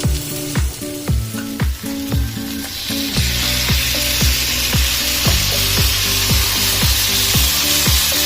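Food frying in a hot pan: a sizzle that gets suddenly much louder about three seconds in and then stays steady. Background music with a steady beat plays throughout.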